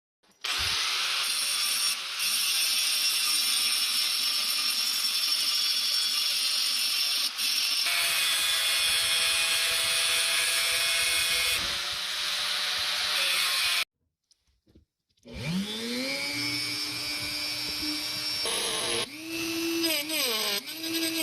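Electric power tool running steadily with a high hiss, cutting off about two-thirds of the way through. After a brief pause it spins up again with a rising whine that settles, then its pitch wavers near the end as it is loaded.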